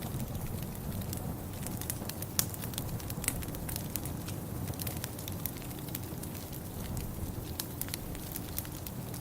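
Wood fire in a fireplace crackling, with many small sharp pops at irregular moments over a steady low rumble.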